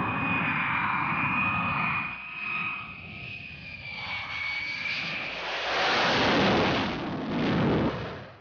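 Jet engine of the Boeing X-32 running, with a steady high turbine whine over a rushing noise. The rush swells louder about five and a half seconds in, then the sound cuts off suddenly at the end.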